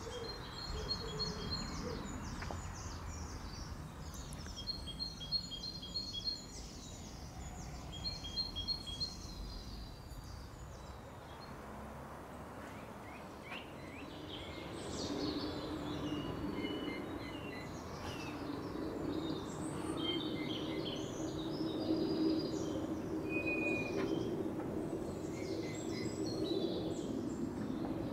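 Small songbirds chirping and singing in short repeated phrases over a steady background of outdoor noise. About halfway through, a low steady drone joins in and stays.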